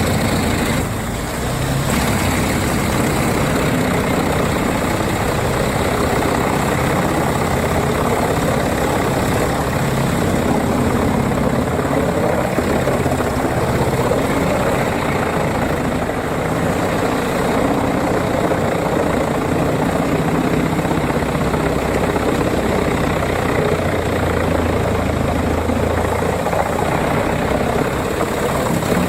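Wood chipper running steadily while it chips wood: a continuous engine drone mixed with the noise of wood being shredded.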